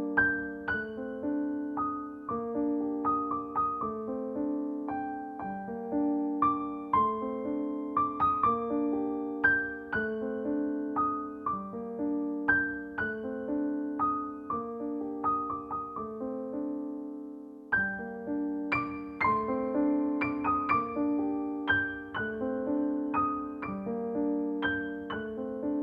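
Gentle piano music, a steady flow of notes that pauses briefly about 17 seconds in and then carries on.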